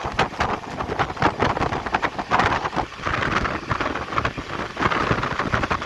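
Bundelkhand Express passenger train running at speed: a steady loud rush with dense, irregular rattling and clattering, and wind buffeting the microphone.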